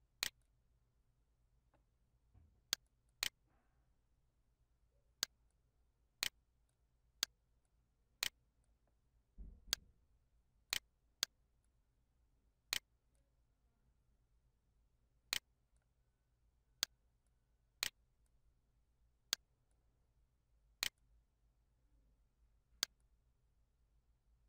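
Computer mouse clicks: some seventeen sharp single clicks at uneven intervals, over near-silent room tone. A soft low thump comes about nine and a half seconds in.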